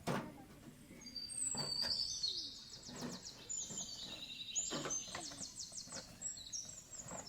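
A songbird singing a long, varied song of high, fast trills and whistles, starting about a second in. A few sharp knocks sound through it, the loudest at the very start.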